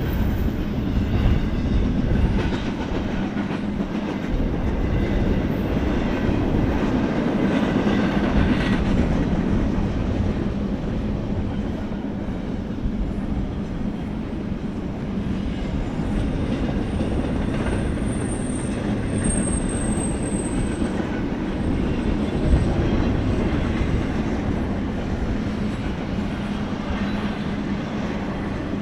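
BNSF freight train rolling past, a steady rumble of cars with wheels clicking over the rails. A faint high wheel squeal comes in around the middle.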